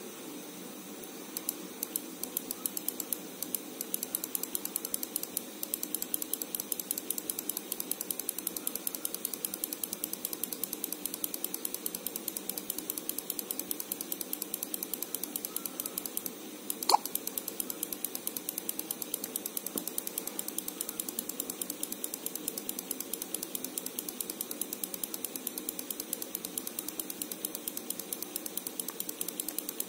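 Rapid, even mechanical-sounding clicking at about five ticks a second from the bench ECU-programming setup while a Marelli ECU is being written; it starts about a second and a half in, with one sharper click about halfway through.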